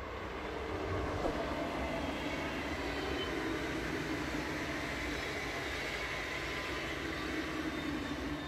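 Electric train running on the track: a steady rumble with a faint whine.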